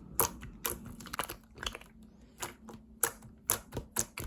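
Mixed slime being kneaded and squeezed by hand, giving irregular sharp clicks and pops, a few each second.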